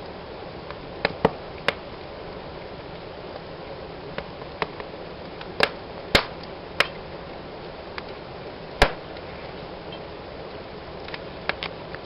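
Wood fire burning in a fireplace: a steady low hiss of flames with irregular sharp crackles and pops, the loudest about two-thirds of the way in.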